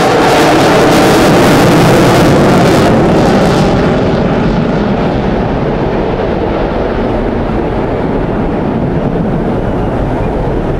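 Aircraft flying past low and loud. Its pitch falls as it passes, and after about four seconds the sound thins to a lower, steady rumble as it moves away.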